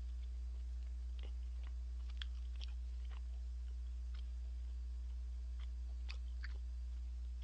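A person chewing a mouthful of pan-fried beef steak, with scattered faint wet clicks of the mouth, over a steady low hum.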